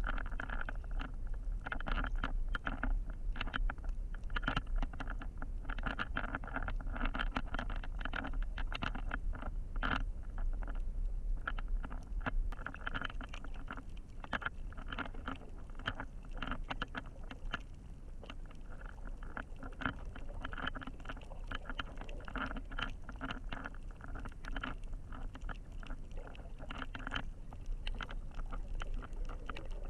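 Muffled underwater sound picked up by a GoPro in its waterproof housing while snorkeling: a low rumble with many small clicks and crackles throughout.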